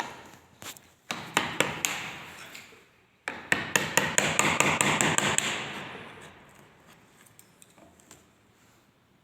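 Hammer blows, two quick runs of sharp strikes, the second faster, around five a second, before the sound fades away.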